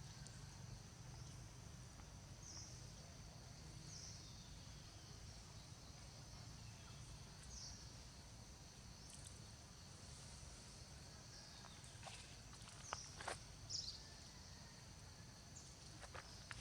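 Faint outdoor ambience: a steady high insect drone with a few short high chirps every few seconds. A handful of sharp cracks like twigs or leaves snapping come about three-quarters of the way through.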